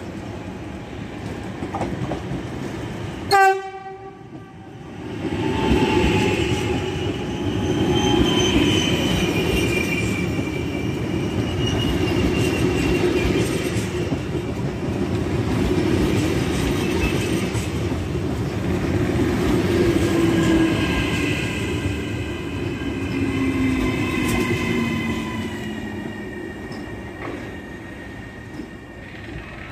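An electric regional passenger train gives one short, loud horn blast about three seconds in, then runs in alongside the platform. The wheels rumble on the rails and the traction motors whine, the whine sliding down in pitch as the train slows, and the sound fades toward the end.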